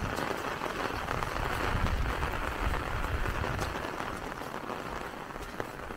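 Steady rain hiss, with scattered drops tapping on the umbrella held over the microphone and occasional low thuds.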